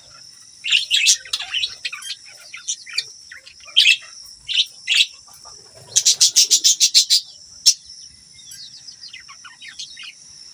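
Budgerigars chirping and chattering, with a quick run of about ten sharp chirps, around eight a second, a little past the middle.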